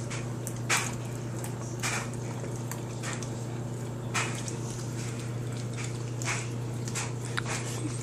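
Dog licking and smacking peanut butter off a spoon: short wet licks every second or two, over a steady low hum.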